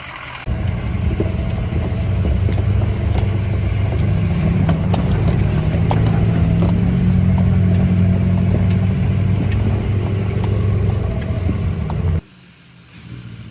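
A vehicle engine running hard under load, a steady deep drone with a slight rise in pitch midway, that cuts off abruptly about twelve seconds in.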